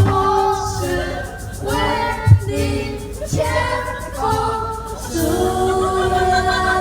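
A group of people singing a song together in unison, unaccompanied, with held notes; a sharp thump cuts in at the start and again about two seconds in.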